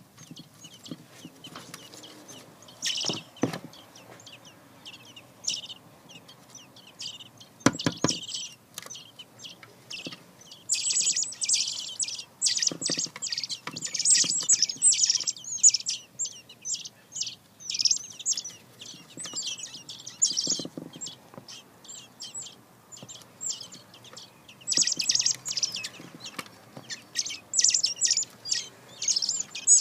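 A bird chirping, with many short high calls coming in dense rapid bursts, and a couple of sharp knocks in the first few seconds.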